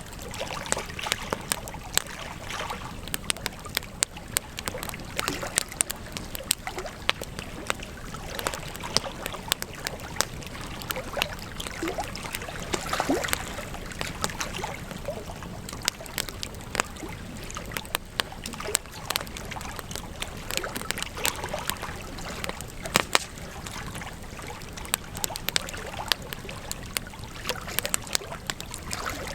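Campfire burning: wood crackling and popping in frequent sharp snaps over a steady hiss of the flames.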